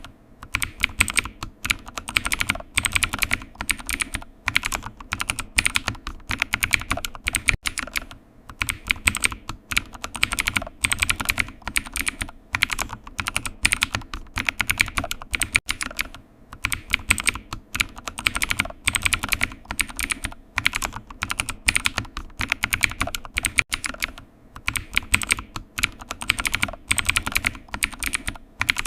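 Typing on a computer keyboard: fast, continuous runs of key clicks, with short pauses every several seconds.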